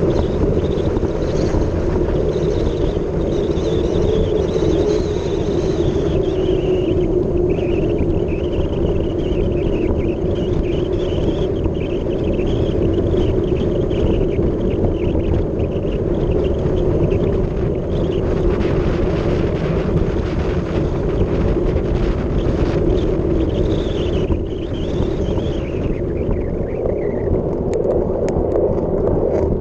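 Wind rushing over the microphone and tyre roar from a mountain bike descending fast, with a wavering higher whine that falls in pitch near the end.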